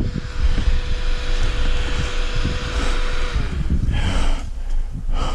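Beta 500 dirt bike engine running at steady throttle, with heavy wind buffeting the microphone. About three seconds in, the engine note drops as the throttle is eased off.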